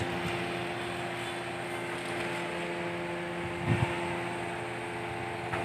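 Truck-mounted hydraulic crane running: a steady engine drone with held tones, and a brief knock a little past the middle.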